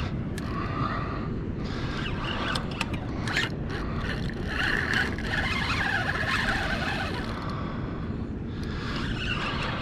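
Fishing reel during a fight with a big redfish: scratchy cranking and drag spells over a steady low rumble.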